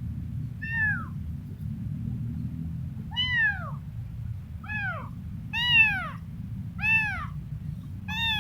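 Kitten meowing repeatedly: about six short, high calls, each rising then falling in pitch, over a steady low background rumble.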